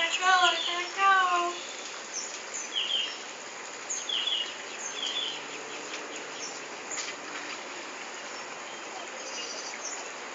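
Small birds chirping now and then in short, high calls over steady background noise. A voice is heard briefly in the first second or so and is the loudest sound.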